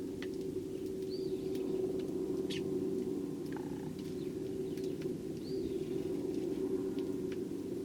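A few short, faint chirps from Eurasian tree sparrows, two of them small arched calls about a second in and again about five seconds later, over a steady low hum that is the loudest sound.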